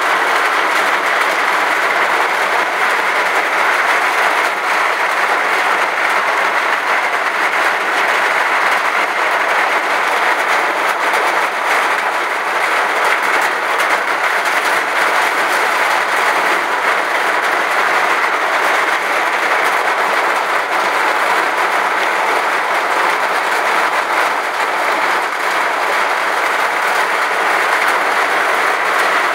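Steady, loud rushing noise of a vehicle driving on a wet road in heavy rain, heard from inside: tyre spray and rain with no breaks.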